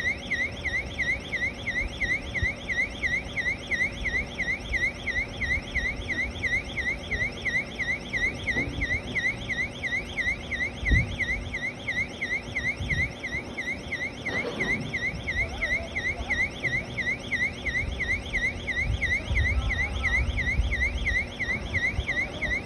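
Electronic warning alarm of an aerial work platform, sounding a rapid, steady rising-and-falling warble without a break. Low knocks and rumble from the machine sound underneath, with a thump about eleven seconds in.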